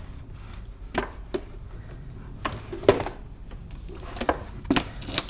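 Knocks and clicks from parts of an Ozito PXC 36V battery lawn mower being handled and fitted together by hand, as it is set up for use. There are about seven separate knocks, the sharpest about three seconds in.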